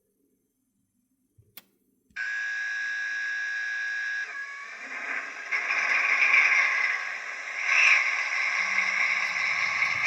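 Sound decoder of a model V142 diesel locomotive playing through its small onboard speaker: after a faint click, a steady buzzing tone for about two seconds, then the diesel engine sound starting up and running, swelling twice.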